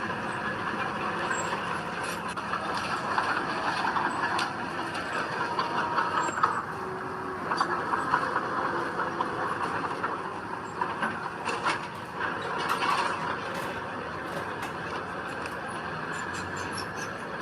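Heavy earthmoving machinery at work: a diesel engine running steadily under load, with scattered metallic clanks and squeaks, several of them close together about two-thirds of the way in.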